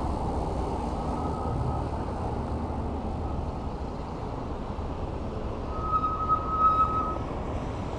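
Steady wind and road noise from riding an e-bike in street traffic. A brief, steady high-pitched whine rises above it about six seconds in.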